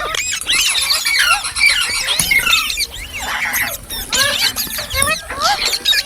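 Green parrots, Indian ringnecks, chirping and squawking in a rapid, dense stream of short, high, sliding calls that overlap one another.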